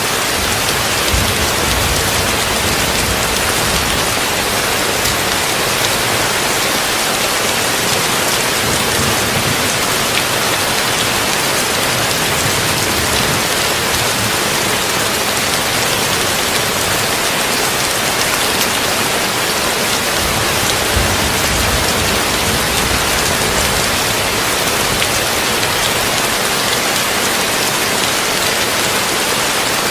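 Heavy rain falling steadily on a tin roof, mixed with brown noise: a dense, even hiss with a few brief low rumbles.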